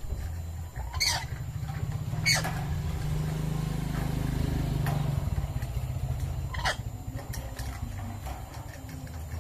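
A pet lory gives three short, harsh calls, about one, two and a half, and six and a half seconds in, over a steady low rumble.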